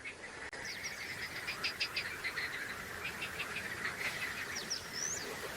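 Birds chirping and calling in quick series of short notes, with a few quick high whistles near the end, over a steady high trill.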